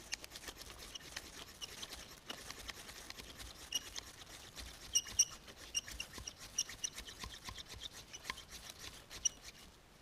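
A knife spine (Adventure Sworn Classic) scraped again and again along a ferrocerium fire steel, in a rapid run of rasping strokes with a few harder strikes, throwing sparks onto Old Man's Beard lichen tinder that is slow to catch.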